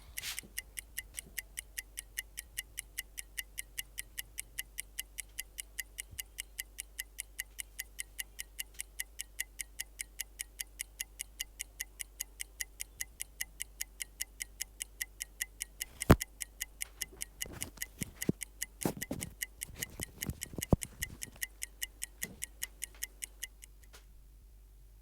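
Clock ticking quickly and steadily; the ticking stops suddenly near the end. A sharp knock sounds about two-thirds of the way through, followed by a few fainter knocks and clicks.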